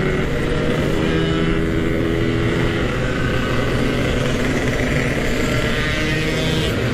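Yamaha RX-King's single-cylinder two-stroke engine running steadily through a Packing Power standard-style aftermarket exhaust, its pitch drifting only slightly.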